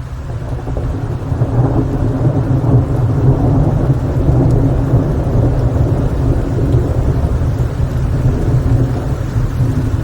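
A long rolling rumble of thunder, building over the first couple of seconds and then holding, over steady rain.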